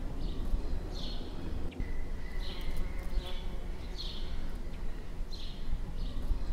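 A small bird repeating a short, high chirp about once a second, over a steady low rumble.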